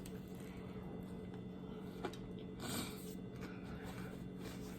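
Faint chewing and mouth noises of someone eating a taco, with a small click about two seconds in and a short soft noise about half a second later, over a faint steady electrical hum.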